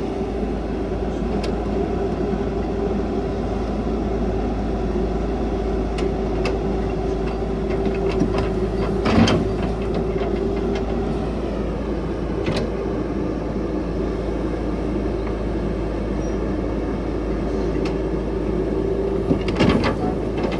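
CAT 312 hydraulic excavator's diesel engine running steadily under a working load, with a steady whine and a few sharp metallic knocks, the loudest about nine seconds in.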